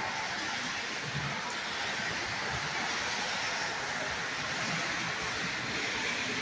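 Heavy rain pouring down steadily in a tropical storm, an even, unbroken hiss.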